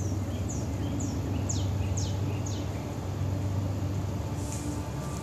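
Steady low rumble of distant diesel locomotives running as a freight train approaches. Over it a bird sings a run of quick downward-sweeping whistled notes, about two a second, for the first two and a half seconds.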